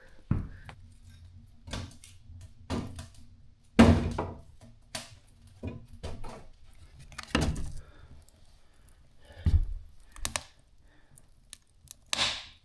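About a dozen irregular knocks and thunks from the small wood stove and its lid, with a faint steady hum in between.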